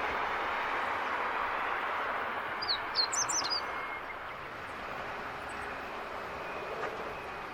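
A small bird gives a quick run of high, falling chirps lasting about a second, around three seconds in, over a steady rush of background noise that eases off a little afterwards.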